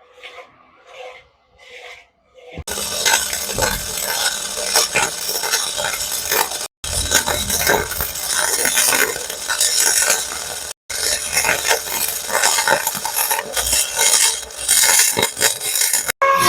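Steel being worked: dense metallic scraping and clattering, starting loud a couple of seconds in, in several short stretches that cut off abruptly.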